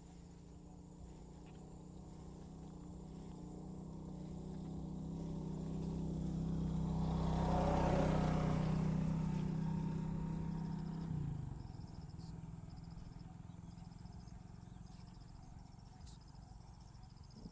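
A motor vehicle passes close by. Its engine hum grows louder to a peak about halfway through, drops in pitch as it goes past, and fades away.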